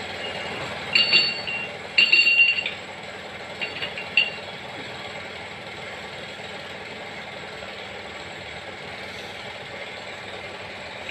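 Steady workshop machinery noise with a faint constant hum. Several short, ringing metallic clinks come in the first four seconds.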